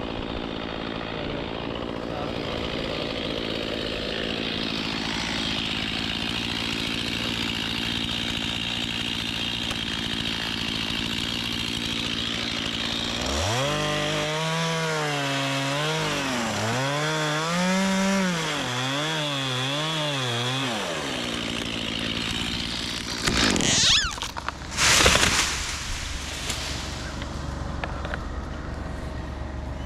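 Chainsaw running steadily at a high pitch for most of the time. In the middle a lower pitched tone wavers up and down for several seconds, and two loud sudden noises come near the end.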